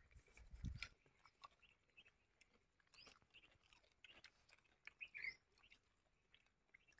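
Very faint chewing and small mouth clicks of someone eating fried fish, with scattered soft clicks and a few brief faint chirps.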